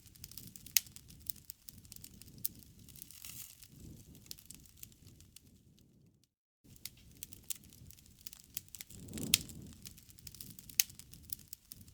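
Bonfire crackling: irregular sharp pops and snaps from burning wood over a low rustling bed of flame. The sound cuts out completely for about half a second a little past halfway through.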